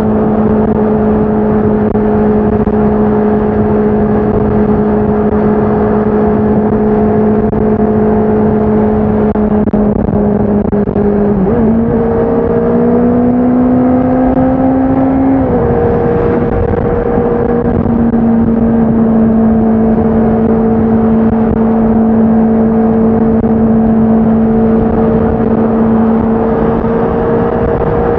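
Honda CBR650R's inline-four engine and exhaust under way at steady revs. About eleven seconds in the engine note steps up and climbs for about four seconds, then drops back and holds steady again.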